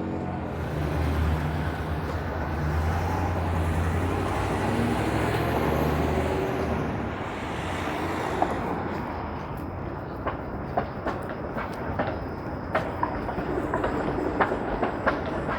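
Toronto streetcars passing on their rails: a steady low hum and rumble of motors and steel wheels for about seven seconds, then easing off. Sharp clicks follow in the second half.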